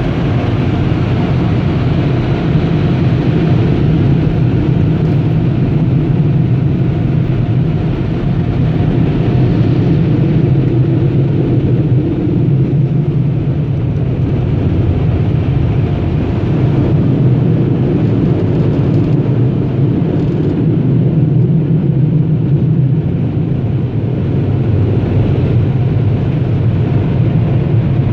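Car wash air dryers blowing on a minivan, heard from inside the cabin: a loud, steady rush of air. The blast is strong enough to move the wiper blades.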